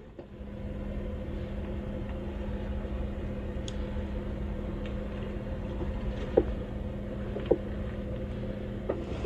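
Off-road vehicle's engine running steadily at low revs, with a few short, sharp knocks in the second half.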